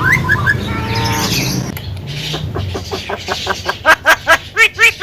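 Javan myna calling: a few short rising notes, then a quick run of repeated rise-and-fall notes that grows loud in the second half.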